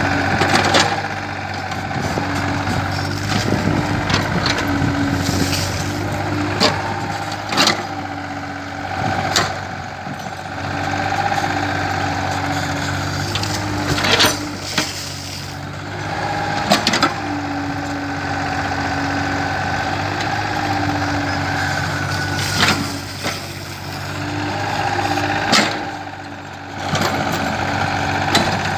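Kobelco hydraulic excavator's diesel engine running steadily. A higher whine rises and falls every few seconds as the hydraulics work, with scattered sharp knocks and clanks.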